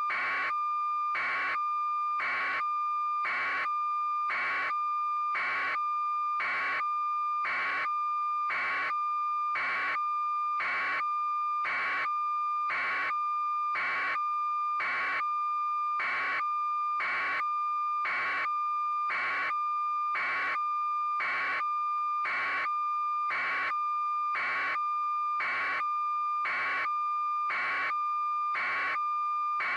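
Steady electronic tone, high and even, with a sharp beep pulsing regularly about once a second.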